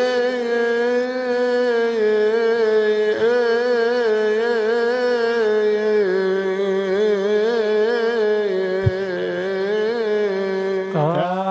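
A solo male voice sings one long melismatic phrase of Coptic liturgical chant, drawn out on a vowel with small wavering ornaments and vibrato. It breaks off briefly about eleven seconds in as the next phrase begins.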